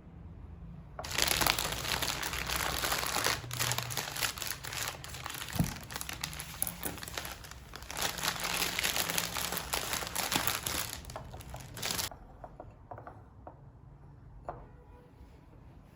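Crinkly wrapping or packaging being crumpled and handled, starting about a second in and stopping about twelve seconds in, with a short lull partway through.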